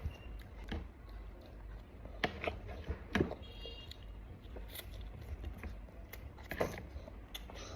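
Close-up eating sounds of a child: chewing and mouth noises, with a few sharp clicks scattered through, the loudest about two to three seconds in.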